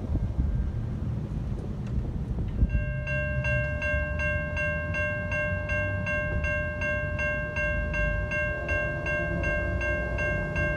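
A train rumbling past. About three seconds in, a bell starts ringing rapidly, about three strokes a second, and keeps on over the rumble.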